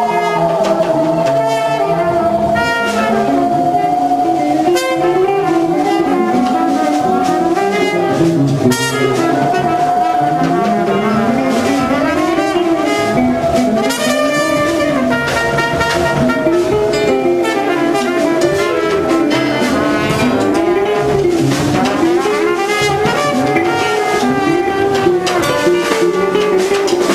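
Live contemporary jazz quintet playing: one long held note with a slight waver sits over a lower melodic line that keeps rising and falling, with drums and cymbals ticking underneath.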